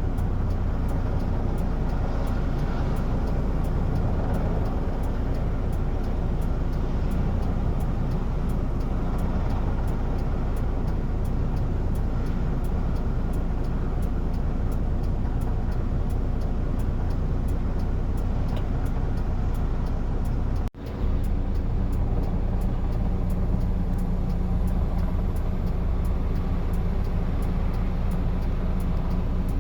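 Steady low engine rumble. It cuts out for an instant about twenty seconds in, then carries on with a steadier low hum.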